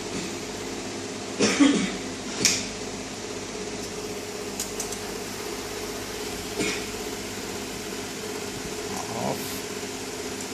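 A steady machine hum made of several tones, with a few knocks and clatters over it. The loudest knocks come about one and a half and two and a half seconds in.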